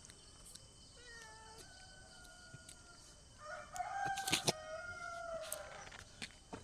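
A cat meowing in two long, drawn-out calls, a fainter one about a second in and a louder one a little past the middle, with a few sharp clicks during the second call.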